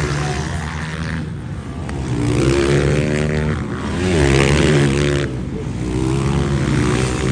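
Several small-displacement motocross bike engines (125–230cc class) revving hard. Their pitch rises and falls as riders work the throttle and shift, growing louder about two seconds in and again about four seconds in.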